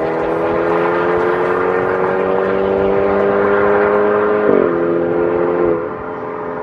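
BMW N20 2.0-litre turbocharged four-cylinder through an MS-R valved cat-back exhaust, accelerating with its note slowly rising in pitch. About four and a half seconds in the pitch drops with an upshift, and near the end it goes quieter as the throttle eases.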